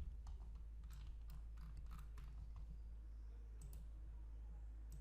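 Faint, irregular clicking from a computer's mouse and keys, about ten clicks, over a steady low hum.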